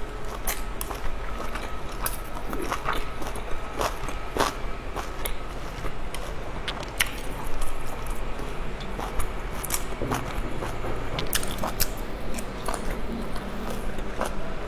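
Close-miked eating sounds: a person chewing dumplings and pickled chilies, with irregular sharp mouth clicks and smacks throughout.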